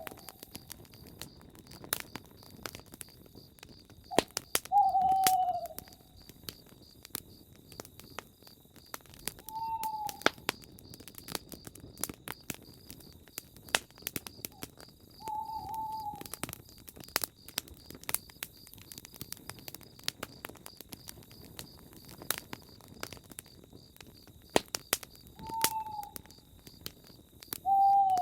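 Campfire crackling with frequent sharp pops, while an owl gives five single short hoots a few seconds apart, each dropping slightly in pitch.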